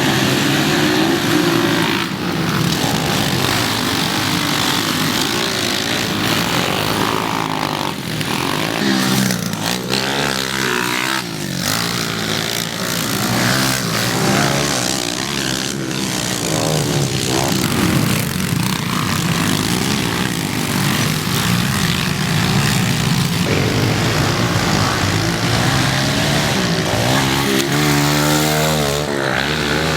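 Pit bike engines running hard, the pitch rising and falling again and again as the bikes rev up and back off through the race.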